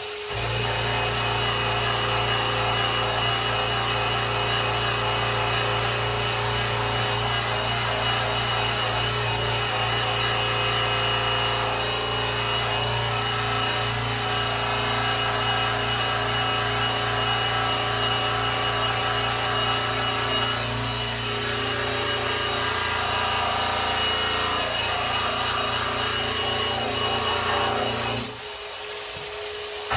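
Electric polisher running steadily, its pad buffing the finish of a grand piano's case; the motor cuts out briefly near the end.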